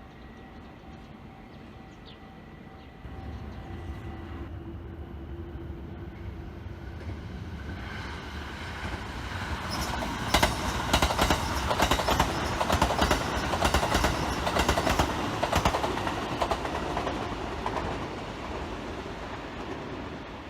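A train approaching and passing, building from a low rumble to a loud, rhythmic clickety-clack of wheels over rail joints in the middle, then fading near the end.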